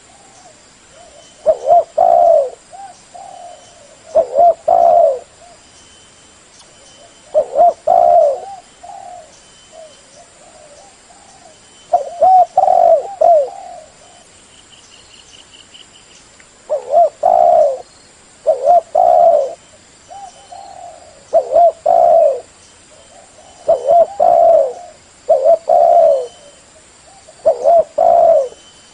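Spotted dove (terkuku) cooing: loud phrases of two or three coos repeating every two to four seconds, with softer coos in between.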